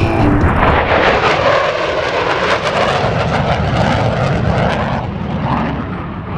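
F-15 Eagle's twin jet engines running loud in a flyby, a dense jet noise whose high end dulls and fades as the jet moves away.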